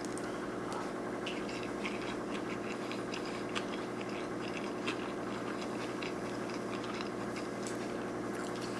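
A person chewing sushi rolls, with scattered small wet mouth clicks, over a steady low hum.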